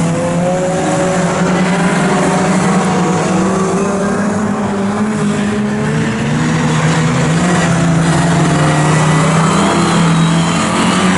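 Pre-1966 historic touring cars' engines at race pace, their pitch repeatedly rising and falling as they accelerate and lift off.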